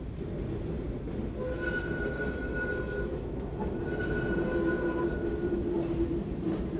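Metre-gauge electric trains moving slowly over the station tracks: a low rumble of wheels on rail, with drawn-out high squeals from the wheels beginning about a second and a half in and fading near the end.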